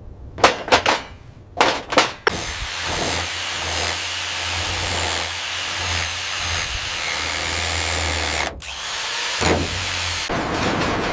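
A few sharp knocks, then a power tool starts and runs steadily with a low hum, dropping out for a moment near the end before running on.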